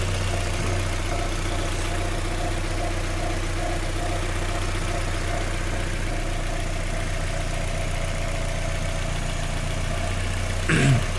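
Opel Astra H's 1.6-litre Z16XEP four-cylinder petrol engine idling steadily and evenly, with no tapping or knocking. The knock had been traced to oil collected inside the intake manifold, and that fault is now cured.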